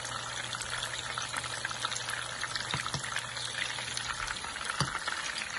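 Seekh kebabs frying in hot oil in a pan, a steady crackling sizzle. A couple of light knocks come about three and five seconds in, and a low background hum cuts off a little after four seconds.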